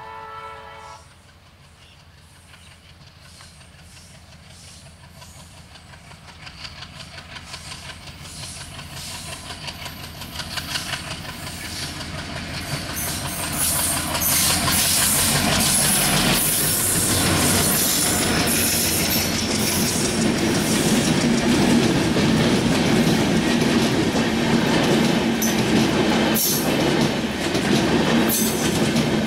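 A train horn cuts off about a second in. A passenger train hauled by a WDM-3A diesel locomotive then approaches, growing steadily louder until the locomotive passes close by about halfway through. The coaches then roll past with a loud, rhythmic clickety-clack of wheels on the rails.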